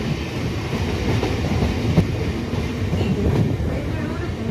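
Running noise of a moving passenger train heard from aboard: a steady rumble of wheels on the rails, with a sharper wheel click about two seconds in.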